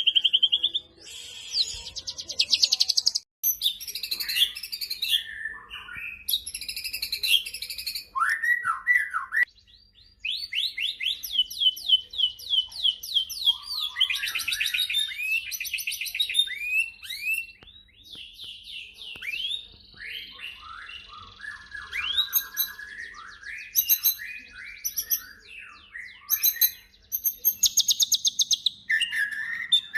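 White-rumped shama singing a varied, loud song of rapid trills, fast repeated notes and whistled glides, changing phrase every second or two, with brief breaks about three seconds in and near ten seconds.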